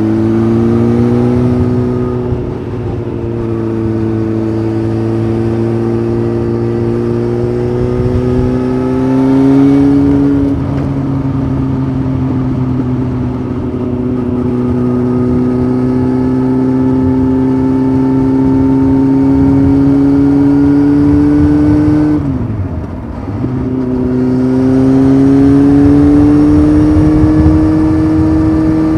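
Honda CBF 600's inline-four engine, through a titanium sport exhaust, running under steady acceleration with its note slowly climbing. About ten seconds in, and again about two-thirds of the way through, the note dips sharply and then settles lower, the sign of upshifts.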